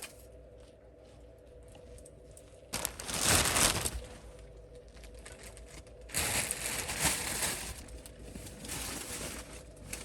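Two bursts of rustling and crinkling, each about a second and a half long and a few seconds apart, over a faint steady hum.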